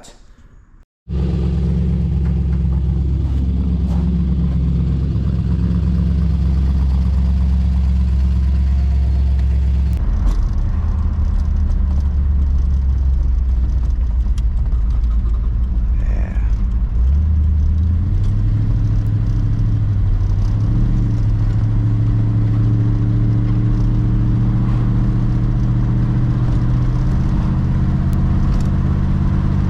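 Ford Customline's engine running steadily while the car is driven on the road, its low note shifting a couple of times along the way.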